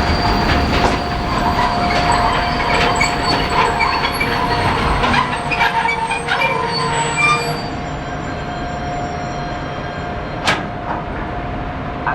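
Freight train passing on the tracks, its wheels squealing in a steady high tone over the rumble and the clatter of wheels on the rails. The noise dies down after about eight seconds.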